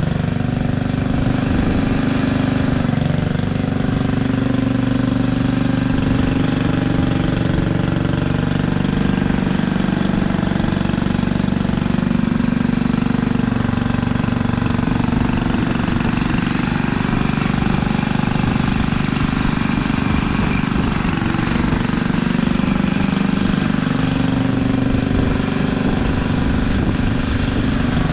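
Simplicity Landlord garden tractor engine running steadily, its speed shifting a little now and then. It is running again after an ignition repair with new points, condenser and a new 12 volt coil.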